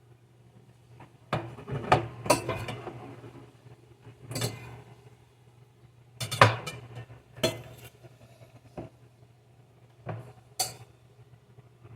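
Dishes and cutlery clattering as they are handled and set down: about nine sharp clinks and clatters at uneven intervals, a cluster of them close together near the start. A low steady hum runs underneath.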